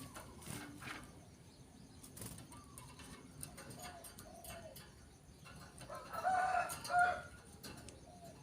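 Birds calling: soft low notes repeated in pairs, then a louder two-part call about six seconds in, with scattered sharp clicks.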